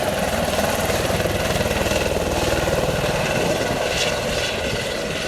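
A large engine running steadily, with a rapid low pulsing.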